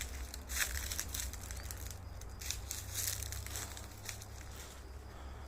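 Dry leaves and twigs rustling and crackling in irregular crisp bursts, over a steady low rumble.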